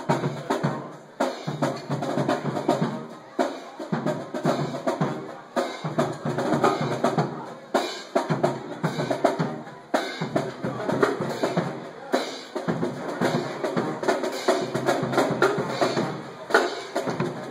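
Marching band playing as it passes, with snare and bass drums beating a steady, fast rhythm loudest over the rest of the band.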